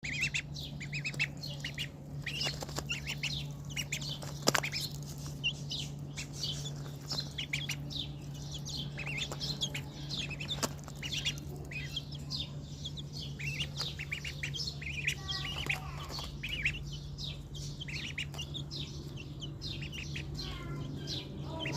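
A brood of young ducklings and chicks peeping: many short, high chirps overlapping without pause. A steady low hum runs underneath, and a single sharp knock comes about four and a half seconds in.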